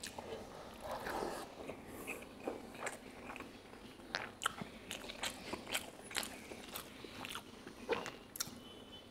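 A person chewing a mouthful of rice and pork curry, with frequent wet mouth clicks and smacks, about two a second.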